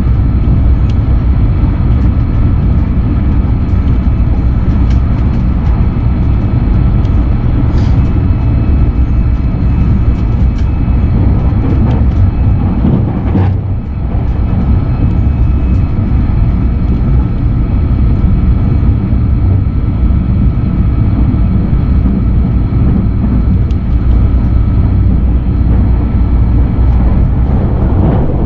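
Inside the passenger cabin of a JR West 683 series limited express electric train running at speed: a steady, loud rumble of wheels on rail. The level dips briefly about halfway through.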